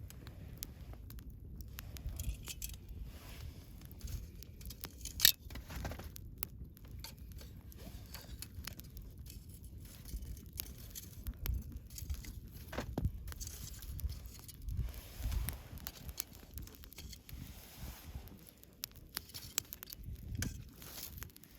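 Wood campfire burning, with irregular crackles and small pops over a low rumble of flame; one sharp snap about five seconds in.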